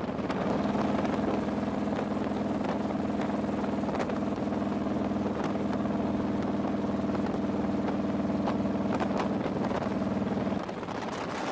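Motorcycle engine running at a steady speed with an even drone, which cuts off abruptly near the end.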